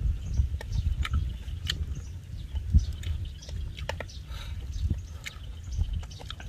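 A person chewing and eating grilled fish by hand, with scattered small wet smacks and clicks over a steady low rumble.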